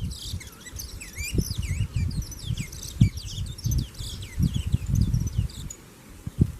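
Small songbirds chirping, many quick, high, overlapping notes that thin out and stop near the end, over irregular low rumbling noise.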